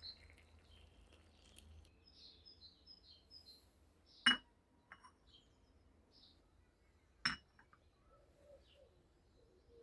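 Two sharp clinks, like glass or metal being knocked, about three seconds apart, over faint bird chirps.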